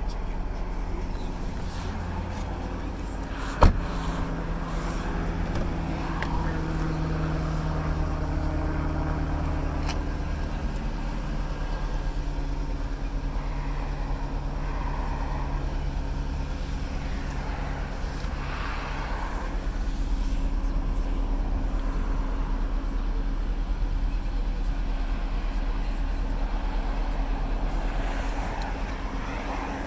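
Audi RS3's turbocharged five-cylinder engine idling steadily, heard in and around the cabin. A single sharp click about three and a half seconds in is the loudest event.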